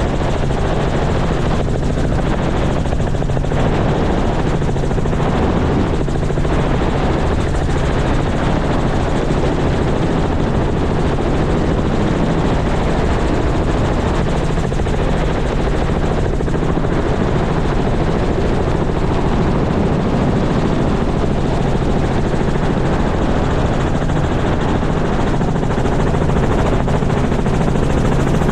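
Helicopter running steadily, with a constant low hum under a dense rush of rotor and engine noise.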